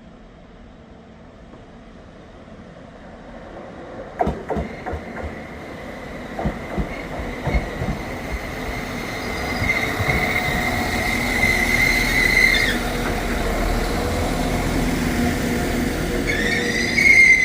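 Class 195 diesel multiple unit pulling into a station: it grows louder as it approaches, its wheels clicking over rail joints from about four seconds in, then a steady high squeal as it slows, which stops about two-thirds of the way through and returns louder near the end.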